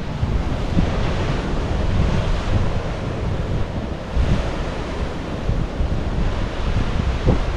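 Sea surf washing in, swelling a few times, with wind buffeting the microphone as a steady low rumble.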